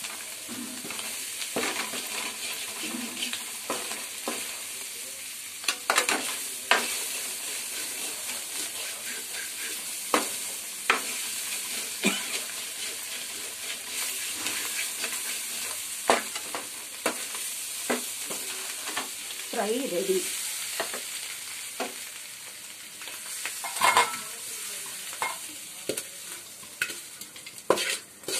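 Boiled baby potatoes sizzling in oil in a kadai, with a steady hiss, while a wooden spatula stirs them, scraping and knocking against the pan at irregular moments. Near the end come a quick run of clanks.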